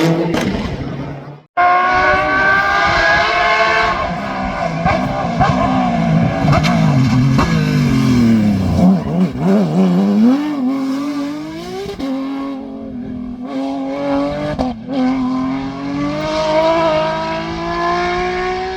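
Rally car engine at high revs after a brief silent break about a second and a half in. The pitch sweeps down as the car slows, then climbs again in steps through gear changes as it accelerates hard.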